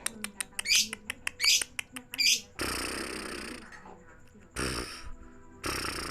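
Lovebird chirping: short high chirps about a second apart amid quick clicks, then several longer, harsher noisy stretches in the second half.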